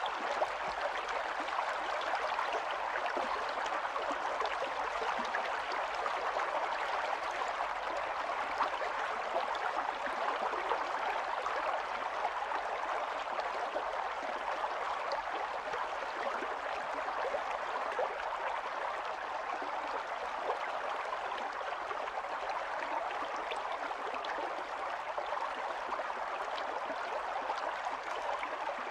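Small stream running over stones, a steady babble of flowing water with faint splashes and gurgles.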